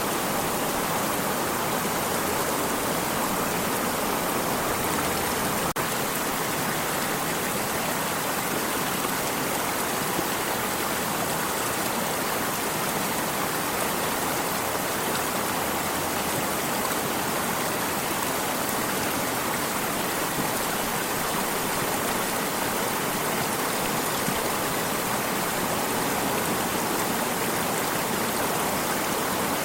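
Flowing stream, a steady, even rush of water.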